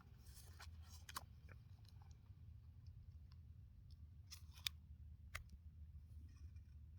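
Near silence, broken by a few faint clicks and rustles from a paper logbook being handled, about a second in and again around the middle.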